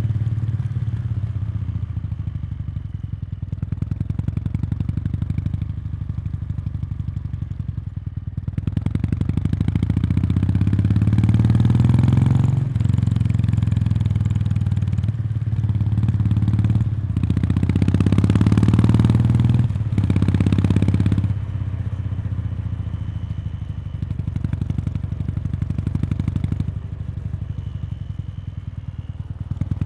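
Meguro K3's air-cooled parallel-twin engine heard through its stock muffler, close to the outlet. It runs at a steady light throttle, then pulls harder from about a third of the way in. There are a few brief breaks in the sound, like gear changes, before it eases back to a lighter, steady beat about two-thirds of the way through.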